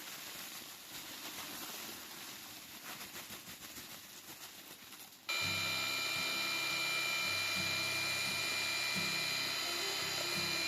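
Gritty cement mortar being stirred, an uneven scraping noise, until background music with held tones cuts in suddenly about five seconds in and becomes the loudest sound.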